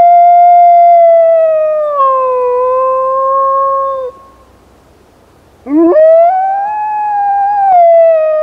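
Wolf dog howling: one long howl that slides down in pitch and breaks off about four seconds in, then after a short pause a second howl that swoops up from low and is held.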